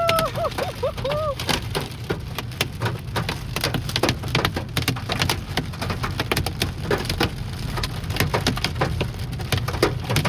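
About 1-inch hailstones hammering a car's roof and windshield in a dense, irregular barrage of sharp cracks, over a steady low road rumble heard from inside the cabin.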